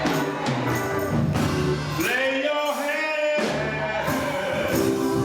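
Live gospel music: a soloist sings a drawn-out line over the choir and instrumental accompaniment.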